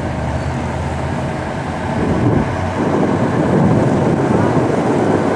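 Boat engine running steadily, with a louder rushing noise setting in about two seconds in.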